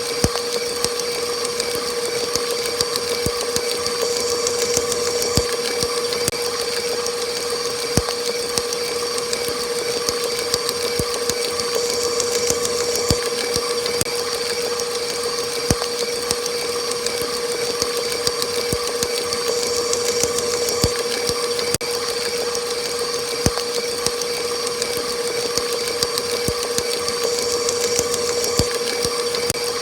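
Electric mixer motor running steadily on high speed: an even, high-pitched whine over a hiss, with scattered light ticks.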